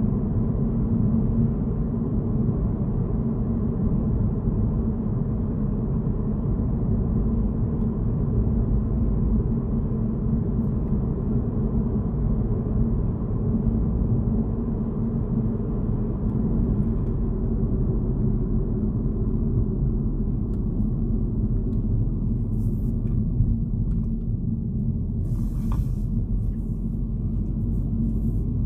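Steady low rumble of a car driving, tyre and engine noise heard from inside the cabin. A few faint ticks come in near the end.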